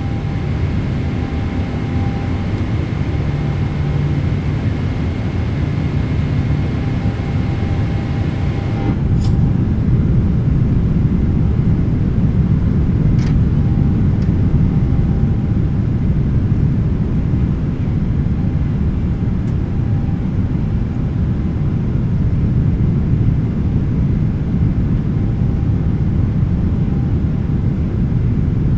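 Cabin noise of a Boeing 777-300ER climbing after takeoff: a steady, loud rumble of its GE90 engines and airflow. A thin high whine cuts out about nine seconds in, and the rumble grows a little louder after that.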